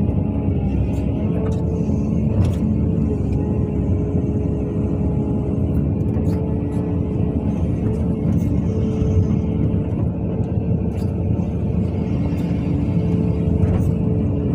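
Heavy diesel engine of a working excavator running steadily, with a steady hum over the engine noise and a few sharp knocks now and then.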